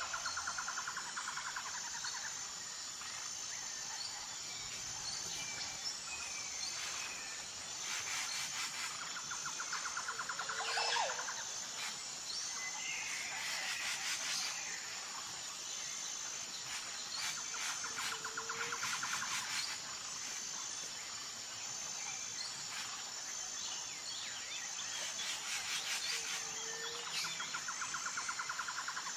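Nature ambience: a steady high-pitched insect drone, with a bird's trilled call repeating about every eight to nine seconds and other scattered bird chirps.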